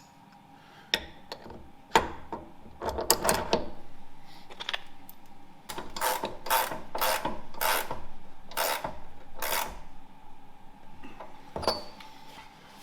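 Hand-tool work on steel mount parts: a few clicks and knocks, then a run of short rasping strokes at about two a second, over a faint steady hum.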